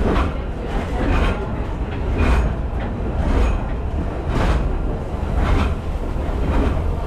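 Heritage steam train running along the line, heard from aboard. A steady low rumble carries a regular hissing beat about once a second.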